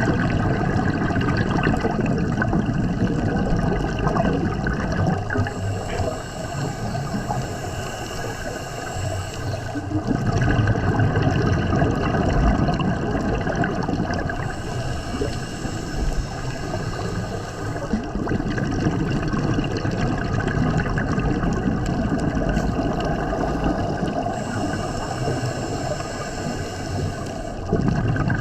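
Scuba diver breathing through a regulator underwater: a hiss on each inhalation alternating with the bubbling rush of exhaled air, about three breaths.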